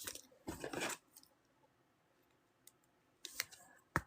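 Trading cards being handled on a table: a brief rustle of cards and packaging, then a few light clicks and taps near the end.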